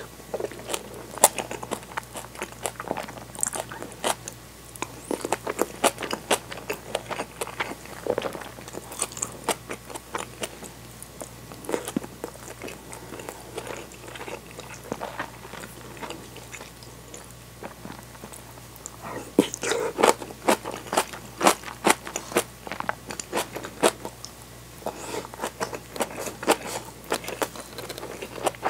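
Close-miked chewing of kimchi, tofu and soft-boiled egg: crunchy bites of fermented napa cabbage and wet mouth clicks, coming in clusters and busiest about two-thirds of the way in.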